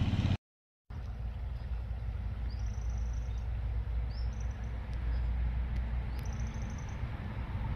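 Several short, high bird chirps at irregular intervals over a steady low rumble, after a brief dropout about half a second in.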